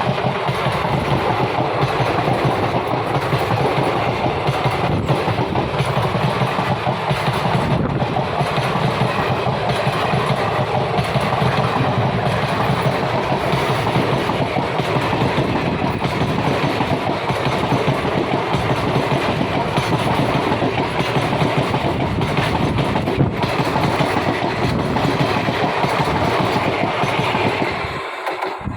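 Train running on the track: a steady, loud rumble that drops off just before the end.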